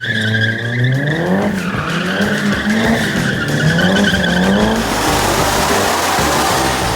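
Ferrari 458 Italia's V8 revving hard through aftermarket headers, test pipes and exhaust, its pitch climbing and falling several times in the first few seconds before giving way to a denser, raspier rush near the end.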